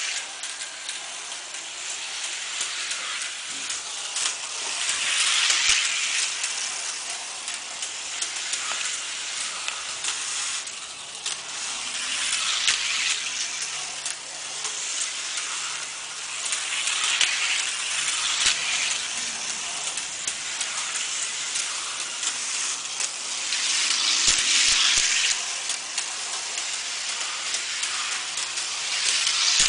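Toy electric-track motorcycles racing: a steady high hiss and whir of small electric motors and wheels on the track, swelling about every six seconds as the bikes come past.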